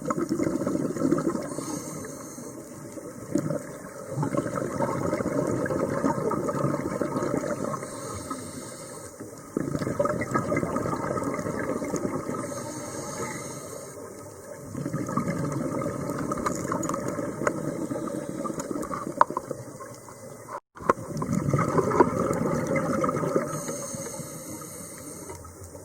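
Scuba diver breathing through a regulator underwater: long rushes of exhaled bubbles every few seconds, with a short high hiss of inhalation between them. The sound cuts out for an instant about twenty seconds in.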